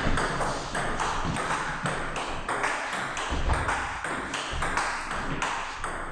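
Table tennis rally: the plastic ball clicking off rubber-faced bats and bouncing on the table in a quick, even run of hits, about two to three a second.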